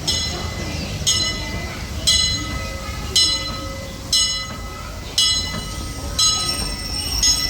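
A bell rings steadily, one clear strike about once a second, each ringing out and fading. Under it runs the low rumble of the moving steam train.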